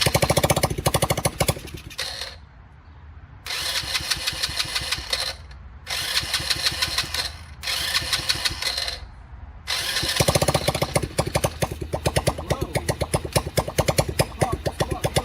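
Small ATV engine being started: it turns over with rapid, even pulsing in four short bursts with pauses between, then runs on unbroken from about ten seconds in. A hard start on an engine that has sat unused for over two years, its start switch bypassed.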